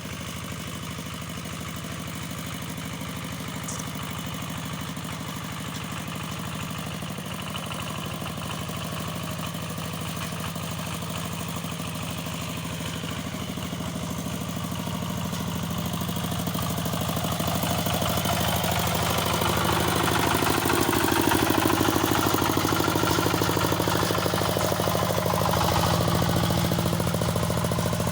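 Two-wheel walking tractor's engine running steadily, growing louder over the second half, with a brief dip and return in pitch partway through.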